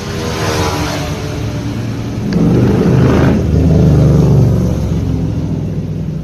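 A motor vehicle's engine passing close by, swelling to its loudest about midway and then easing off.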